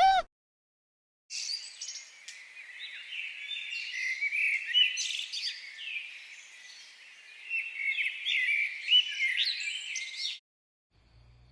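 A flock of small birds chirping and twittering together, many short overlapping chirps and whistles at once, for about nine seconds.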